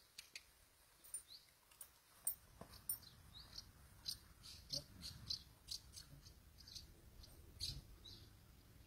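Small bird chirping faintly, with many short, high notes and a few quick rising calls.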